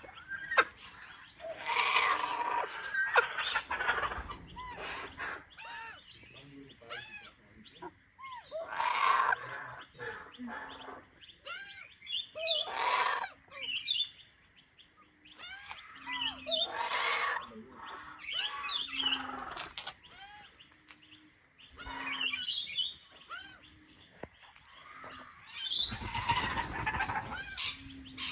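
Birds calling: many short chirps, with a louder, harsher call every few seconds.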